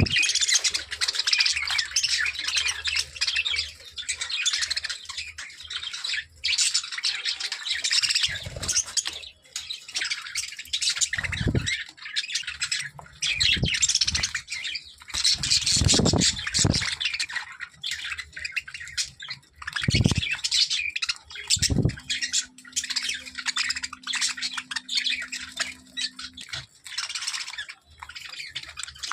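Parrots chattering and squawking without pause, a dense run of shrill chirps and screeches, with a few low thumps.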